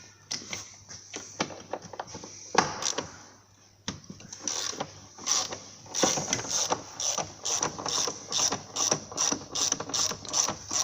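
Socket ratchet clicking as the 16 mm bolts on the front suspension top mounting are undone. A few scattered clicks come first, then a quick, steady run of ratchet strokes from about four seconds in.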